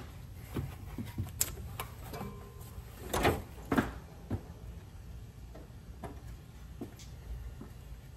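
A few short metal clinks and knocks of hand tools and sockets being handled and set down, the clearest about a second and a half in and twice more around three to four seconds in.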